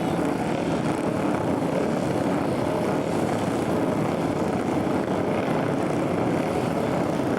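Several flat track racing motorcycle engines running together in a steady drone.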